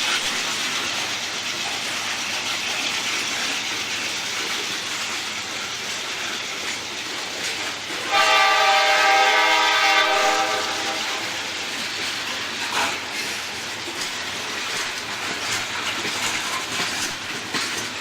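Norfolk Southern coal train rolling, its wheels clicking over the rail joints, with a single horn blast of about two seconds roughly eight seconds in, the loudest sound.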